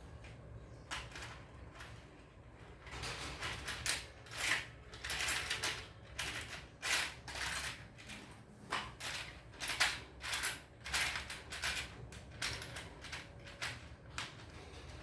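Parts of a construction kit being handled and fitted together: irregular clicks, clacks and rattles, busiest through the middle.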